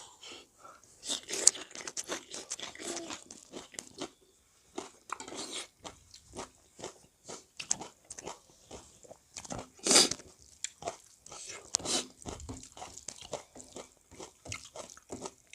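A person eating, chewing and biting food with irregular wet clicks and crunches, one louder crunch about ten seconds in.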